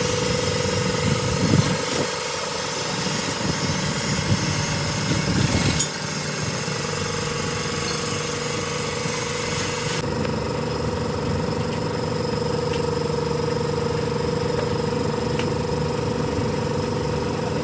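A power tool running continuously with a rapid hammering rattle over a steady whine, louder in a couple of bursts early on; its high hiss drops away about ten seconds in.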